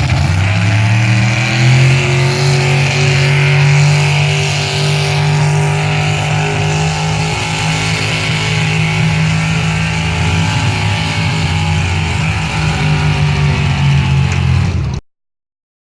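Pro street pull truck's engine held at high revs under load while pulling the sled, its pitch climbing over the first couple of seconds and then holding steady. The sound cuts off suddenly near the end.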